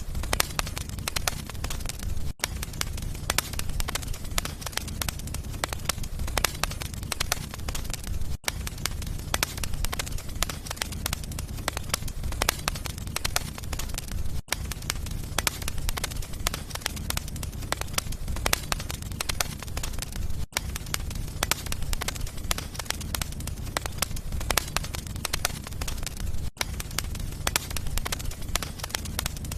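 Wood fire burning in a fireplace, crackling and popping steadily over a low rumble, with a very brief break in the sound about every six seconds.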